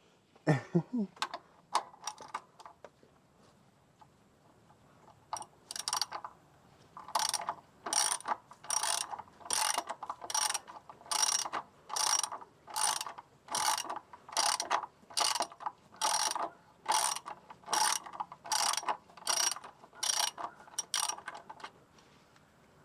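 Socket wrench ratchet clicking in a steady run of short bursts, about one and a half a second, as it backs out an oil drain plug.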